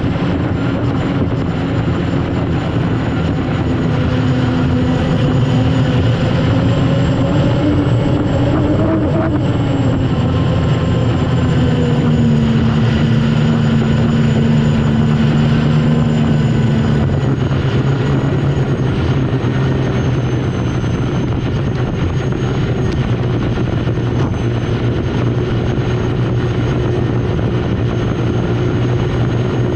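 Turbine engine of an unlimited hydroplane running loud and steady, heard from on board, with a high whine over a heavy drone; its pitch rises about a third of the way in, then falls back in steps.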